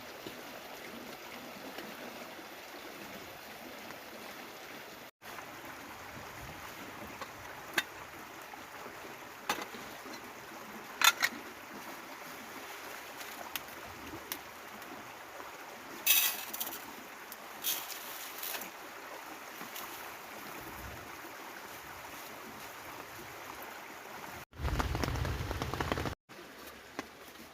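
Steady rush of running water, with scattered sharp knocks and clicks. About three-quarters of the way in comes a louder burst of rushing noise lasting a second and a half, between two abrupt cuts.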